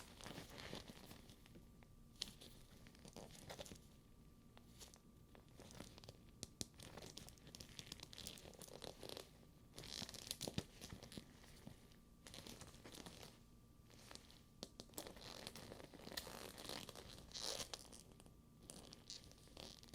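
Quiet, irregular handling of a sticky faux leather bag: the leather crackles and peels as hands work its straps, with soft rustling and a few sharp light clicks of metal buckles and studs.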